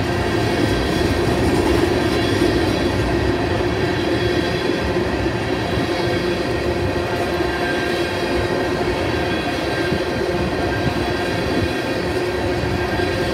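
Empty tank cars of a freight train rolling past: a steady noise of wheels on rail, with several steady ringing tones held above it.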